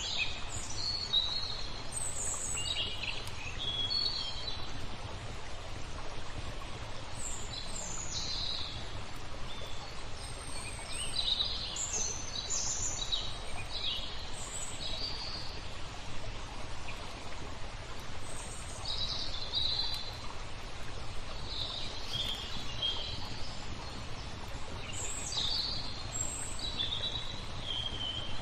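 Songbirds chirping and trilling in short, scattered phrases over a steady rush of flowing water.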